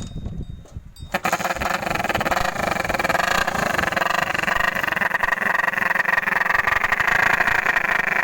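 Motorcycle engine running through a modified silencer. It comes in suddenly about a second in, then runs steadily with a rapid pulsing buzz.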